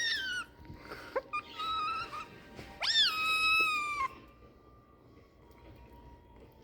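Kitten meowing: a few high-pitched, drawn-out meows, the loudest and longest about three seconds in, lasting about a second.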